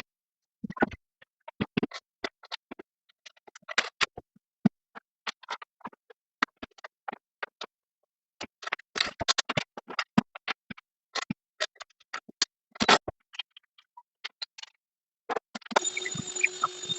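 Scattered sharp clicks and knocks of hand work on tools and hardware, coming in irregular clusters with silence between. Near the end comes about a second of steady whirring, like a power tool running briefly.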